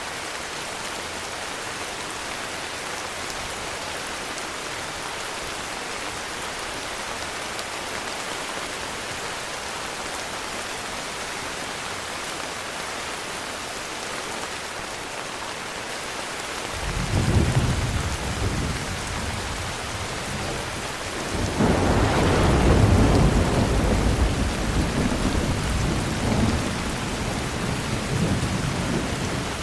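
Heavy rain falling steadily, with thunder rumbling in past the middle: a first low roll, then a louder, longer peal a few seconds later that slowly fades.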